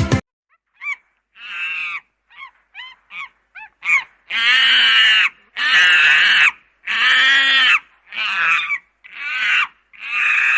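An animal calling: a few short chirping notes, then a run of about six long, harsh, rasping calls, each just under a second, with short gaps between them. Music cuts off just as the calls begin.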